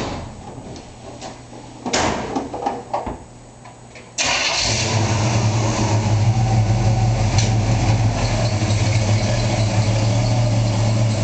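A 1965 Chevrolet truck's engine starts about four seconds in and then runs steadily at idle with a strong low hum. Before that there is a sharp knock at the very start and a brief, uneven rattling burst around two seconds in.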